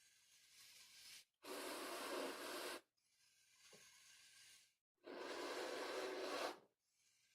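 Long balloon-art balloon being inflated by mouth: two long, strong breaths blown into it, each about a second and a half, with quieter breathing between them.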